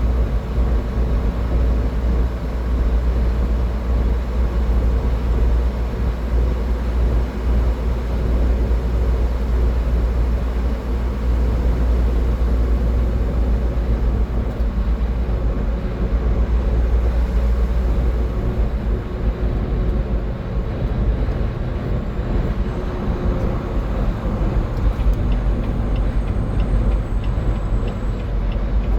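Car driving at highway speed: a steady, deep rumble of road noise.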